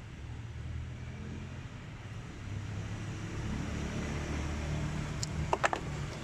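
Low steady rumble of a motor vehicle, growing slightly louder partway through, with a quick cluster of sharp knocks about five and a half seconds in.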